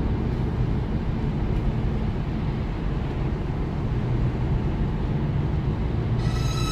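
Steady low rumble of a car's engine and tyres heard inside the cabin while driving on a wet road. A brief high, ringing tone enters near the end.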